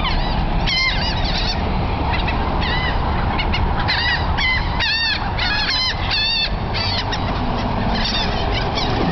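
A flock of seagulls calling, many short arched squawks overlapping in clusters, busiest from about four to six and a half seconds in, over a steady low rumble.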